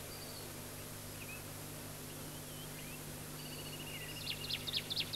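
Faint birdsong: scattered short chirps, a brief trill, and near the end a quick run of about seven descending notes, over a low steady hum.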